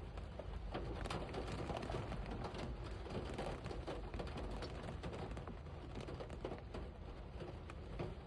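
Heavy rain falling: a steady wash of rain with many small, sharp drop ticks pattering on surfaces.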